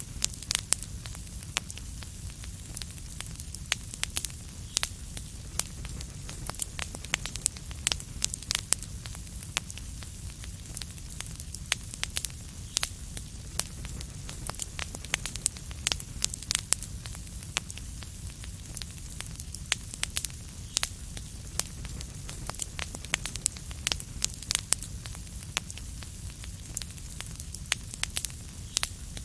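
Wood fire crackling in a fireplace: frequent sharp, irregular pops and snaps over a steady low rumble and soft hiss.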